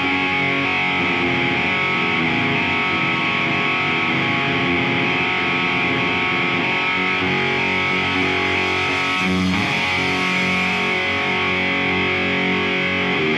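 Distorted electric guitar playing the intro of a heavy metal song, holding sustained notes.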